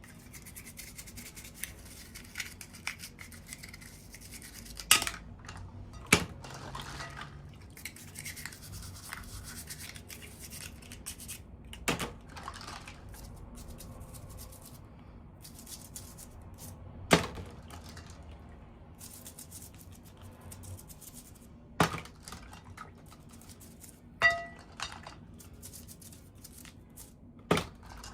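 Small toy packaging and doll pieces handled by hand: soft rustling and scraping, broken by sharp plastic clicks and taps every few seconds, one of them near the end with a brief ringing clink.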